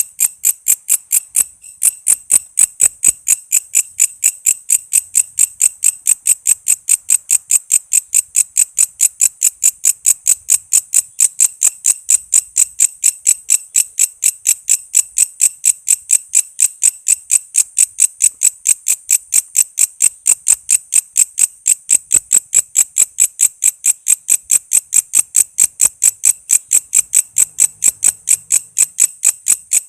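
Walang kece katydid calling: a steady train of short, high-pitched chirps, about four a second, broken once by a short pause near the start.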